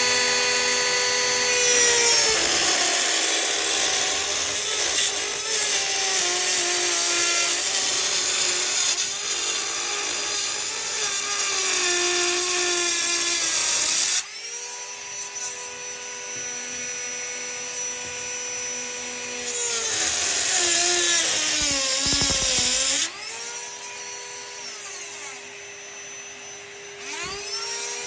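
Dremel rotary tool with a diamond bit cutting ceramic tile: a high motor whine with a grinding hiss, its pitch dipping several times as the bit bites into the tile and then recovering.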